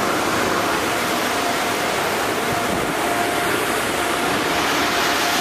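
Automatic car wash machinery running: a steady rushing noise of blowers and water with a faint steady whine in it.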